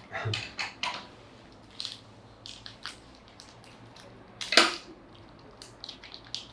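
Wet mouth clicks and smacks from licking and sucking a foot-shaped lollipop to wet it for dipping in popping candy, with one louder sharp click about four and a half seconds in.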